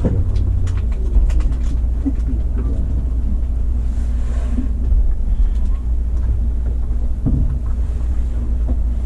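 Low steady rumble and hum inside the driver's cab of a Kintetsu 80000-series Hinotori electric express train, with a few light clicks.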